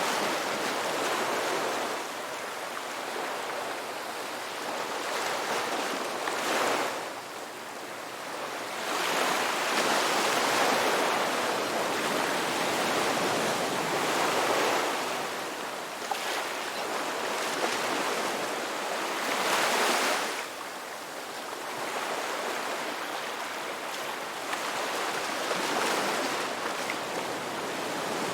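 Ocean waves washing onto a shore, a steady surf hiss that swells and ebbs as each wave breaks, with the loudest surges about a third of the way in and again around two-thirds of the way through.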